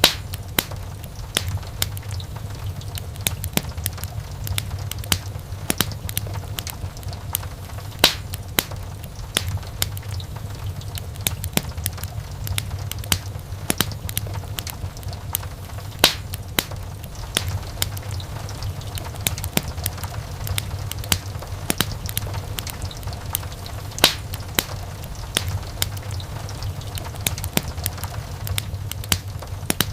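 Wood fire in a fireplace crackling, with constant small snaps over a steady low rumble of the flames. A few louder pops come about every eight seconds.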